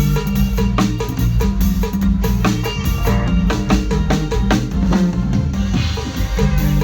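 A band playing with a drum kit and bass: a steady beat of kick and snare under a melody, during a sound check.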